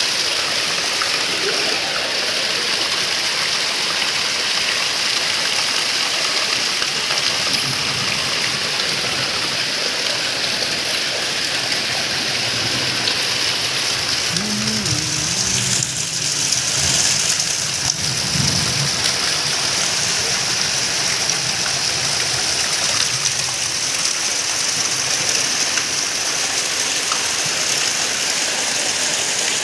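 Heavy rain falling steadily in a dense hiss, with a faint low, wavering sound briefly near the middle.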